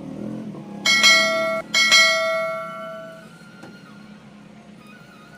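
Two bell-like chimes about a second apart. The first is cut short and the second rings on and fades out, over a faint steady hum.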